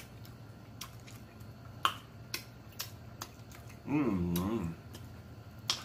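Close-miked mouth sounds of a person chewing baked chicken: a string of sharp wet smacks and clicks of the lips and tongue, with a wavering 'mm' hum of enjoyment about four seconds in.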